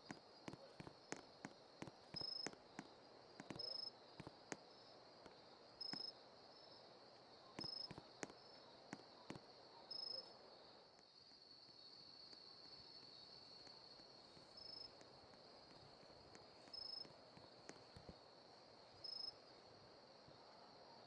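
Near silence with faint insects trilling steadily, short high chirps every couple of seconds, and light clicking like footsteps during the first half.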